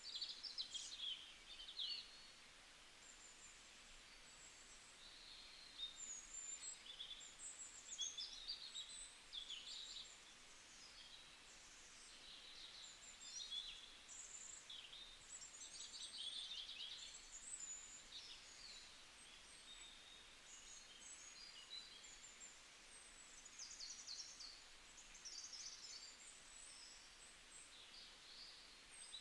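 Faint birdsong: scattered high chirps and short rapid trills, one after another.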